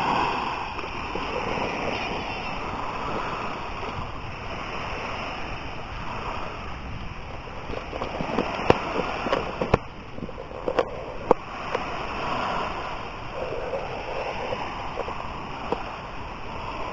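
Sea water washing and splashing, a steady rush of surf, with a few sharp clicks around the middle.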